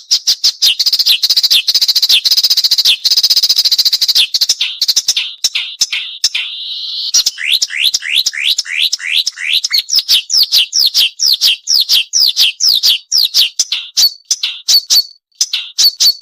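A sikatan londo, a small flycatcher, singing in a long, fast run of sharp, high chirps, several a second. There is a denser buzzy stretch early on and a series of quick falling notes in the middle.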